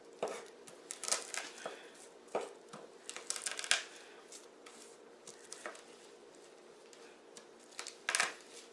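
Cloves being pulled off a whole head of garlic, the papery skins crackling and tearing in irregular short bursts.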